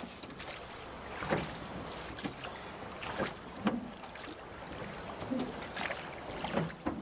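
Small boat being paddled through floodwater: irregular splashes and knocks of the strokes, roughly one a second, over a steady wash of noise.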